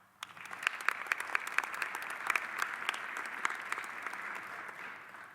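Audience applauding: many hands clapping, starting just after the beginning and dying away near the end.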